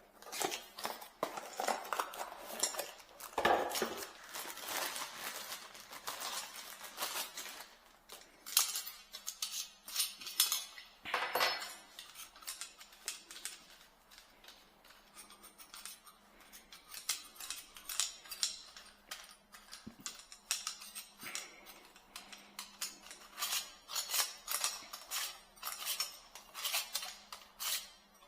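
Irregular metallic clinks and clatters of small parts being handled and fitted, as a kitchen sink basket strainer is installed.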